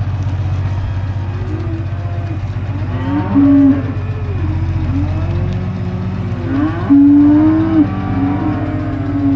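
Several cattle mooing in overlapping calls, the loudest about three seconds and seven seconds in, as they call for feed at feeding time. A steady low engine hum runs underneath.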